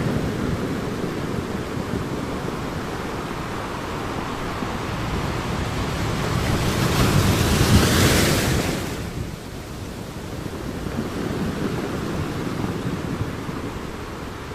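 Ocean waves breaking on a beach as a steady surf wash. One wave swells and crashes about halfway through, with a bright hissing break that fades quickly, leaving a softer rumble of surf.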